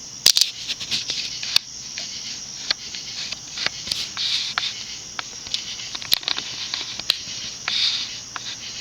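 Irregular light clicks, knocks and rustles from someone climbing up and handling things at close range, over a steady high-pitched hiss.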